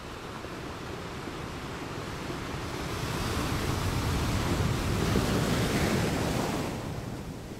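Ocean surf washing in: a steady hiss of waves that swells through the middle and recedes near the end.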